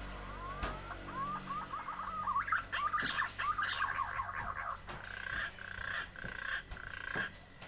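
Aviary birds calling: a quick run of rising chirps, then a busier jumble of calls, then a string of steady held notes broken by short gaps.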